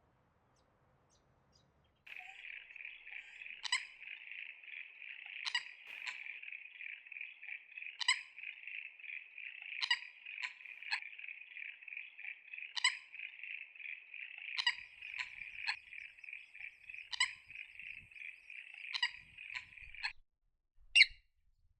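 Wetland animal chorus: a steady high trill, with a short sharp call repeated every second or two over it. It starts about two seconds in and cuts off abruptly near the end, with one last call after.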